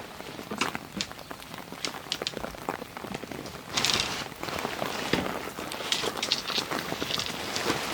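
Rain falling, with many single drops striking a nearby surface as sharp, irregular ticks over a steady hiss. A louder, denser stretch of hiss comes about halfway through.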